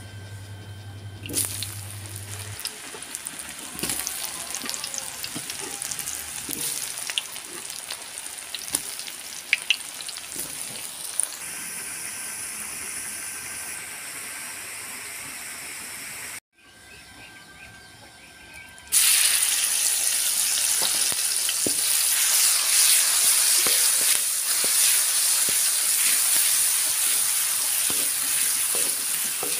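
Hot oil sizzling and crackling with scattered pops as cubes of tempe deep-fry in the pan. After a short break a bit past halfway, a louder, denser sizzle follows as ground chili balado spice paste fries in the oil.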